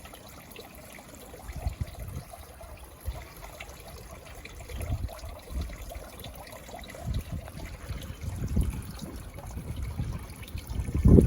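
Garden pond waterfall trickling and splashing steadily, with irregular low rumbles that grow stronger toward the end.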